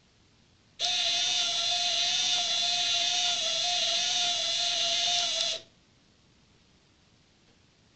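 The small electric windscreen-wiper motor on a scale BK117 RC helicopter model runs with a steady whine for about five seconds. It starts about a second in and cuts off suddenly.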